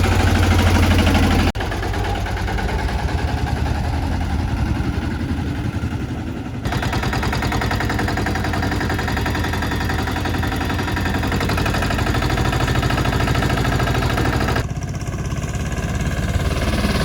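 Escorts Steeltrac 15 mini tractor's diesel engine running steadily with an even chugging beat. The sound jumps abruptly in level a few times where takes are cut together.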